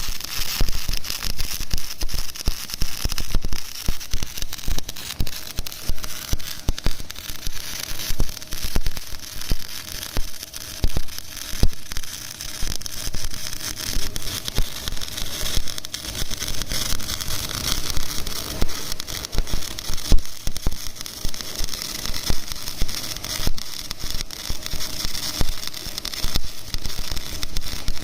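Electric arc welding: the welding arc crackling continuously and densely as a bead is laid.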